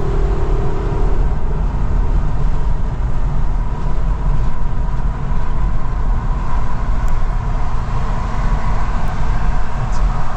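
Steady road and engine noise of a car driving at motorway speed, heard from inside the cabin.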